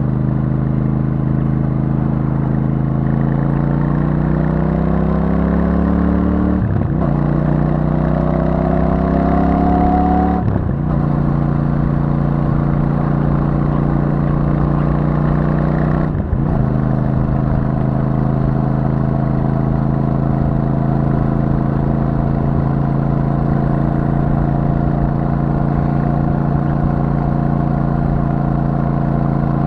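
Royal Enfield Super Meteor 650's parallel-twin engine through its stock exhaust, riding under load: the engine note rises for several seconds, with short breaks as at upshifts about seven and ten seconds in, and another break a few seconds later. After that the bike settles into a steady cruise at an even pitch.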